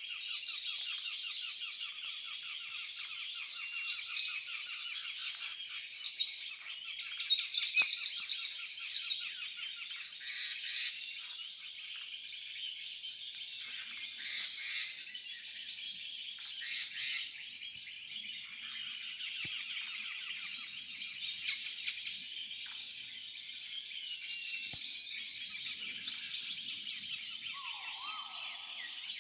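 A noisy chorus of many different forest birds calling and chirping at once, dense and continuous, with louder bursts of calls every few seconds.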